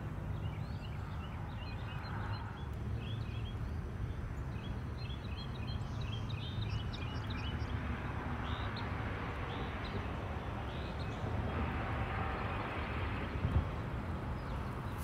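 Small birds chirping and singing, with many short, quick notes in repeated series, over a steady low rumble.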